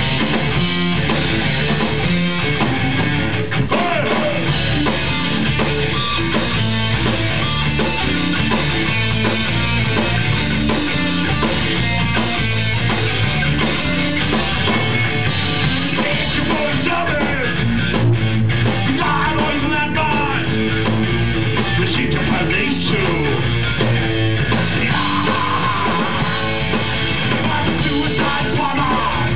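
Punk rock band playing loud and steady live, with electric guitars and a drum kit.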